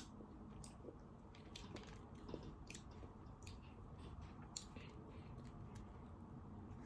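Faint chewing: soft, scattered mouth clicks and smacks of someone eating noodles and chicken katsu.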